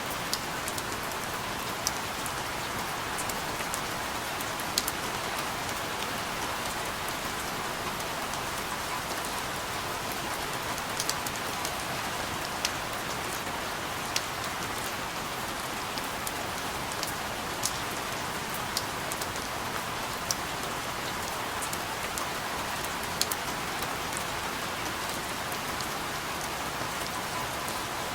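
Steady rain: an even hiss of falling rain with scattered louder drops ticking every second or so.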